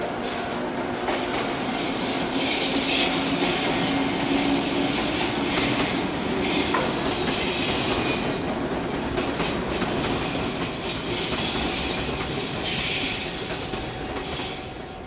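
Train running noise: a steady rumble and hiss, with two stretches of high-pitched wheel squeal, a few seconds in and again near the end.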